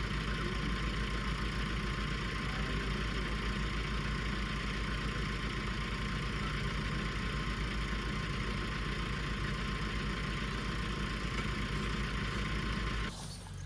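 Farm tractor engine running steadily with an even low pulse, until it drops away suddenly near the end.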